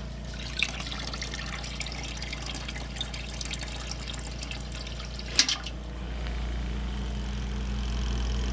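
Portable washing machine's spin dryer running: a steady motor hum with water being spun out of the wet clothes and trickling out. There are a couple of knocks partway through, and the hum grows stronger about six seconds in.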